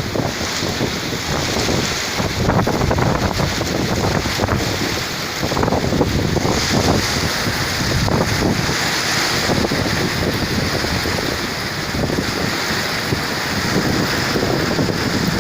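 Gale-force storm wind blowing hard across the microphone: a continuous rumble and hiss that swells and eases with the gusts.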